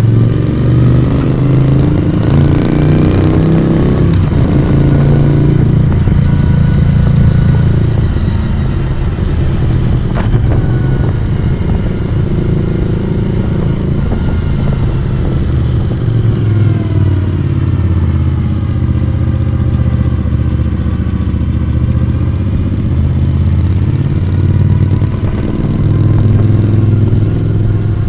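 1982 Moto Guzzi V35's V-twin engine and exhaust pulling under way on the road. The engine note climbs as it accelerates in the first few seconds and drops again as it eases off about two-thirds of the way through.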